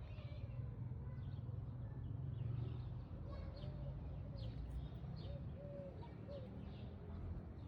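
Birds chirping, with a few short low cooing notes in the middle, over a steady low rumble.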